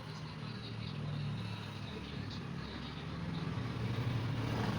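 A motor vehicle engine running with a low hum that swells and eases, growing louder toward the end.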